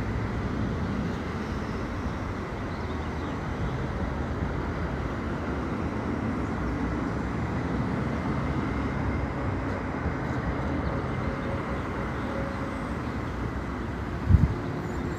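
Steady hum of street traffic. There is a single short low thump near the end.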